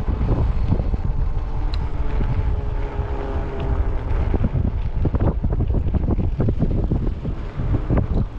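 Wind buffeting the microphone on a moving e-bike: a steady low rumble that flutters with the gusts.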